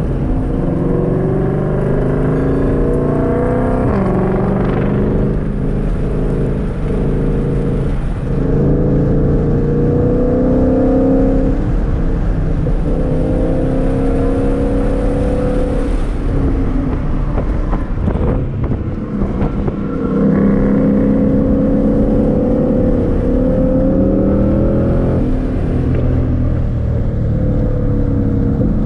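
2022 Shelby GT500's supercharged 5.2-litre V8 on track, heard from inside the cabin: the engine note climbs in pitch again and again as the car accelerates, dropping back between climbs, with a short easing of the sound about two-thirds of the way through.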